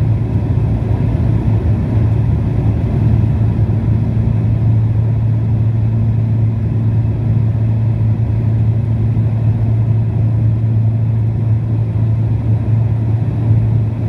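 Pilatus PC-12's single turboprop engine and propeller running steadily at takeoff or climb power: a loud, even drone with a strong low hum that holds without change.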